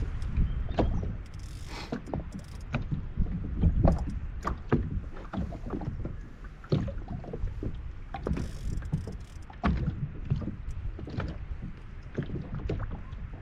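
Irregular knocks and clatter of gear being handled in a small rotomoulded plastic boat, the hull taking the bumps, over a steady low rumble.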